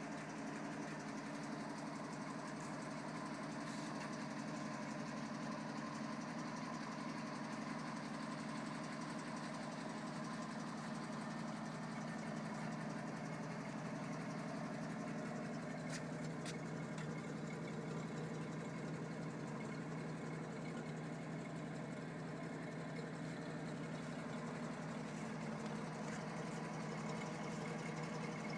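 1962 Toyota FJ40 Land Cruiser's inline-six F engine, freshly rebuilt, idling steadily.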